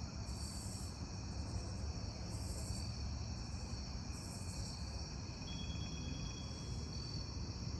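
A night insect chorus: crickets trilling steadily, with a higher buzz that comes in about every two seconds, over a low steady rumble.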